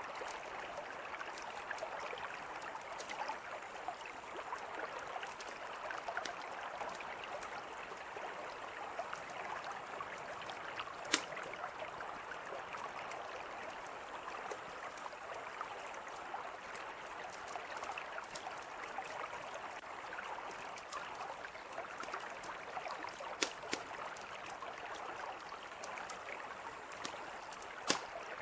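A mountain river flowing steadily, with a campfire crackling over it. There are scattered small ticks and a few sharp pops, one about eleven seconds in and a cluster near the end.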